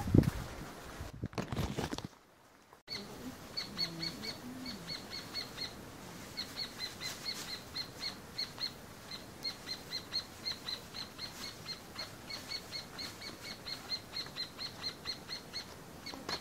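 A bird calling over and over: a short, high chirp repeated about three to four times a second in runs with brief pauses, starting about three seconds in.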